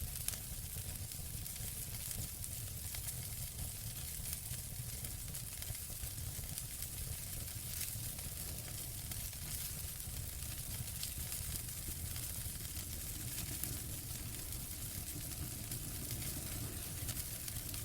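Wood fire burning in a fireplace: a steady hiss and low rumble with frequent small crackles and pops.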